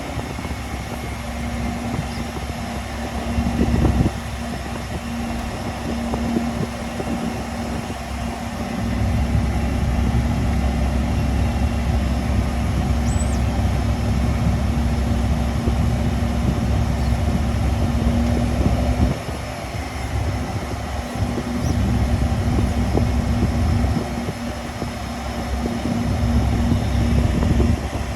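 Learjet 60's turbofan engines running at low taxi power: a steady rumble with a constant droning tone, the level rising and falling slightly a few times.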